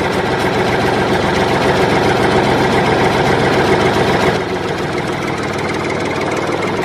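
Mini diesel engine of a model rice thresher running steadily just after starting, with a fast even rattle; it drops slightly in loudness about four seconds in.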